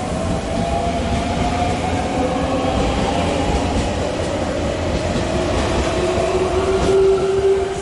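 JR Central 383 series tilting electric limited express train running past along the platform as it pulls out of the station. Its wheels and running gear make a steady noise, and a whine rises in pitch towards the end.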